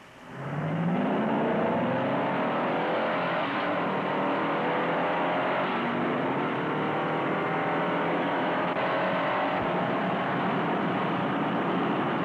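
Cars' V8 engines accelerating hard from a standing start in a drag race. The note jumps in about a third of a second in, climbs steeply, then keeps rising slowly throughout. The old film soundtrack is dull, with no treble.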